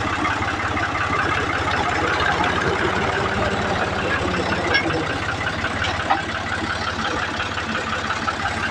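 Diesel tractor engine running steadily at idle, with an even, rapid firing beat.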